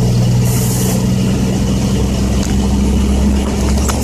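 Loaded dump truck's Caterpillar C10 inline-six diesel running steadily on the road, heard from inside the cab, with a short hiss about half a second in.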